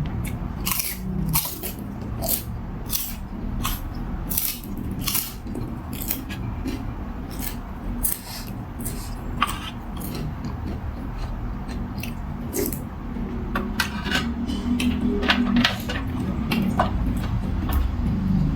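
A person eating noodle soup: many short, irregular clicks and smacks of eating and utensils, over a steady low rumble.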